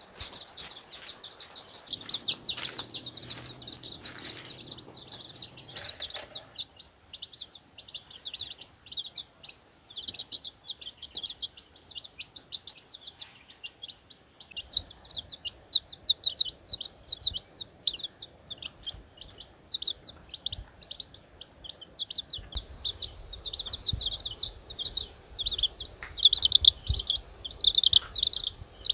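Birds chirping rapidly and continuously over a steady high insect drone.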